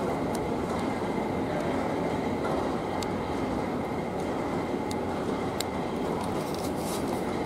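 Steady rumble of a train running, heard from inside the car, with a few sharp clicks.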